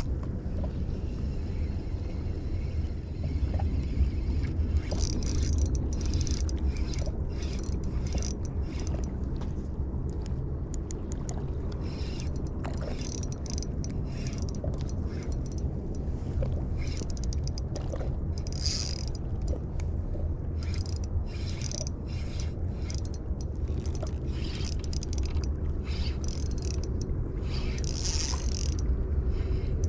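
Spinning fishing reel working in short, irregular bursts of mechanical whirring and clicking over a steady low rumble.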